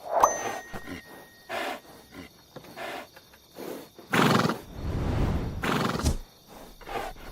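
Horse, with a short rising whinny at the start, then clicks of hooves and several loud breathy bursts, the loudest about four seconds in.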